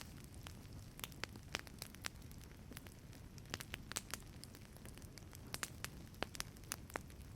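Wood fire crackling in a fireplace: irregular sharp pops and snaps, several a second, over a soft steady low rumble.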